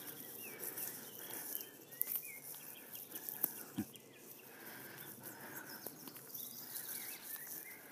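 Faint birdsong, scattered short chirps, over quiet outdoor background noise.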